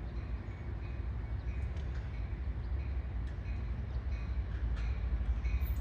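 Low, steady rumble of an approaching passenger train, growing slowly louder.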